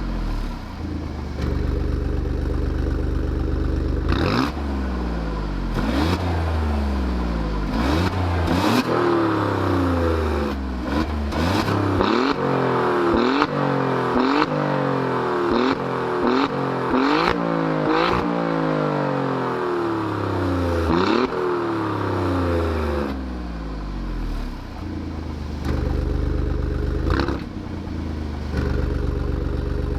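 Alfa Romeo Giulia Quadrifoglio's 2.9-litre twin-turbo V6 revving through its exhaust. The engine note climbs and falls again and again, quickest in the middle stretch, and a sharp crack comes as the revs drop. The note is steadier near the start and end.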